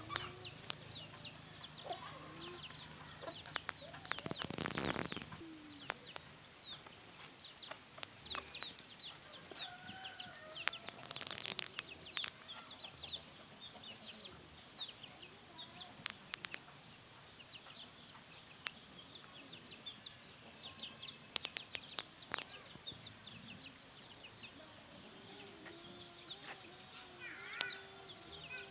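Chickens clucking, with many short high chirps throughout and several sharp knocks. A brief rushing noise comes about four to five seconds in.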